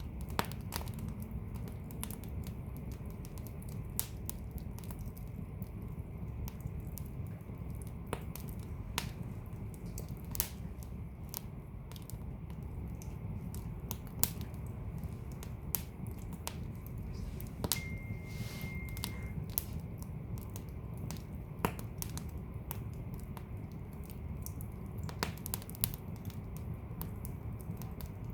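Wood fire burning in a fireplace: a low steady rumble of flames with irregular sharp crackles and pops. About 18 seconds in, a brief thin high whistle lasts a second or so.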